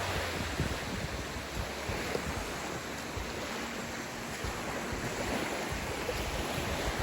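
Lake waves washing, with a steady wash of water noise and some wind buffeting the microphone.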